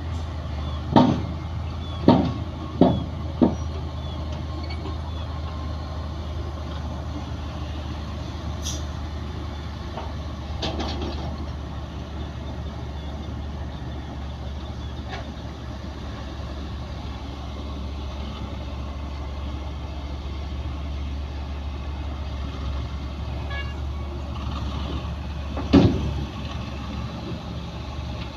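Heavy diesel earthmoving machinery running steadily with a deep engine drone, broken by a quick series of four sharp bangs in the first few seconds and one more loud bang near the end.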